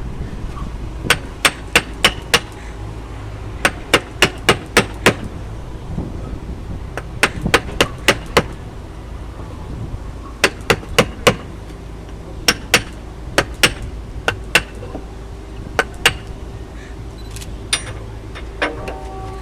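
Caulking mallet striking a flat making iron, driving and flattening caulking cotton into a wooden boat's plank seam. The blows come in quick runs of four to six sharp knocks, with short pauses between the runs.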